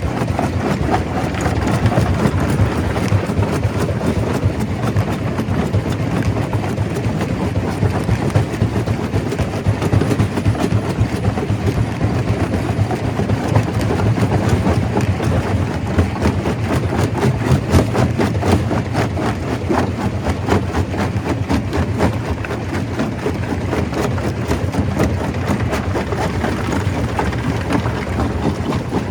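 Stone crusher running under load: a steady, heavy machine noise with a continuous dense clatter of rock being broken and tumbling through it.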